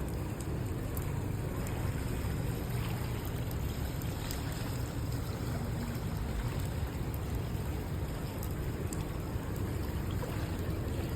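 Steady rain falling and running off, an even wash of noise with a low rumble underneath and faint scattered ticks.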